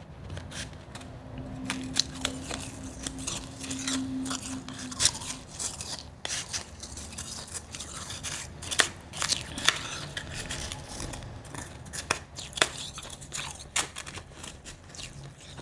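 Ice being chewed up close: a dense run of crisp crunches and cracks, with sharper, louder cracks every second or two.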